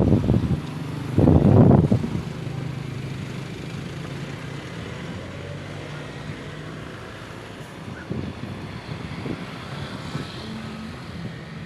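Motor vehicle running close by on the road, a steady engine hum, with wind gusting on the microphone during the first two seconds.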